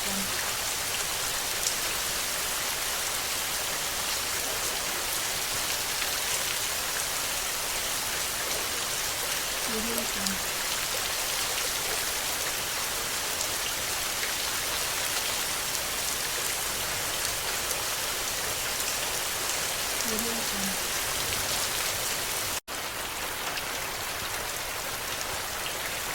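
Steady rain with a dense patter of fine drop ticks. A faint short low sound recurs about every ten seconds. There is a momentary dropout about three-quarters of the way through.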